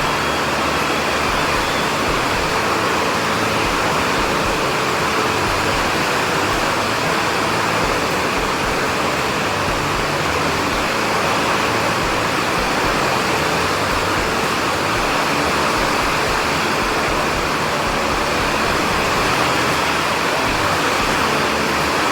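Steady heavy rain sound: an even rushing hiss at a constant level, with no breaks.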